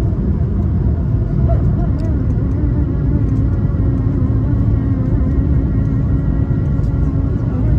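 Steady cabin drone of an Airbus A220-300 in flight: the engine roar and rushing air dominate, with faint steady hum tones above them.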